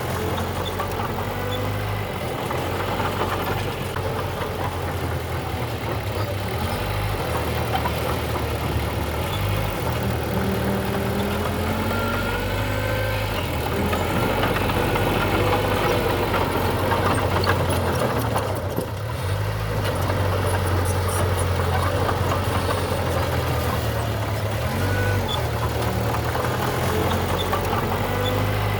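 Heavy diesel engine of earthmoving machinery running, its note shifting up and down as it works.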